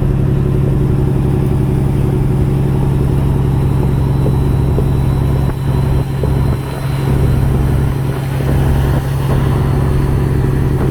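Peterbilt semi-truck's diesel engine running steadily while driving, heard from inside the cab with road noise, with a low even hum throughout and a few brief dips in level past the middle.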